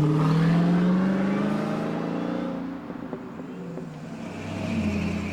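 Car accelerating away, its engine note climbing in pitch and then fading as it drives off. A second engine swells up near the end.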